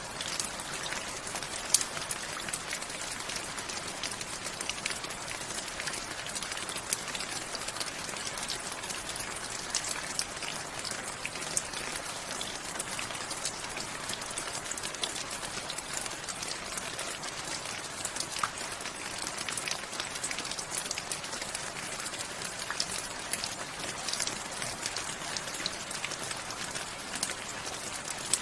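Steady rain falling, with a dense hiss and many close, crisp individual drops ticking on a surface.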